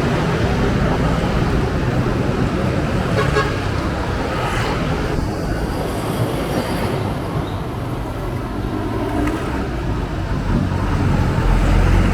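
Road traffic with wind rumbling on the microphone, and a brief vehicle horn toot about three seconds in.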